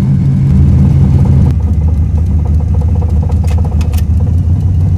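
Truck engine running hard while driving, its note stepping down to a lower pitch about a second and a half in as it eases off, then holding steady. The engine is still cold and not up to temperature.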